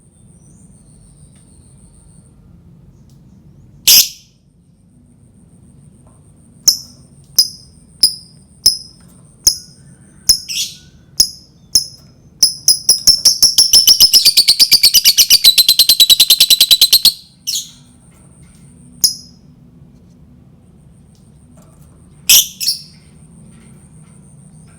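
Lovebird calling: sharp single chirps that come faster and run into a long, rapid chattering trill, the 'ngekek', of about ten notes a second lasting some five seconds, then a few more chirps and calls.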